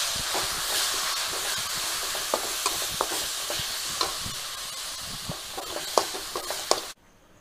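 Green chilli, ginger and herb paste sizzling in hot coconut oil with fried onions in a metal wok, stirred with a metal spatula that scrapes and clicks against the pan. The sizzle cuts off abruptly near the end.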